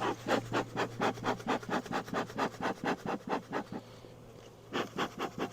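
Fast back-and-forth scraping on wood, about five strokes a second. It pauses briefly near the end, then resumes for a few strokes: a tool working at the wooden frames or walls of a beehive.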